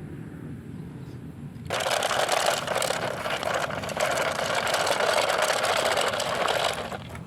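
Toy truck's wheels rolling over rough ground, a dense grinding rattle that starts about two seconds in and lasts about five seconds.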